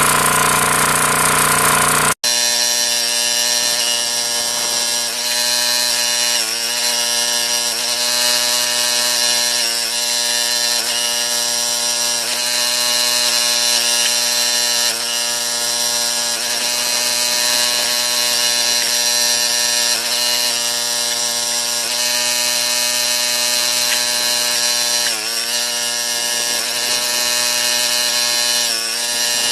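Small gas engine of a County Line log splitter running steadily while the hydraulic ram splits a knotty log. Its pitch sags briefly a few times as it takes the load but it hardly bogs down. The sound breaks off abruptly about two seconds in and picks up again with a slightly different tone.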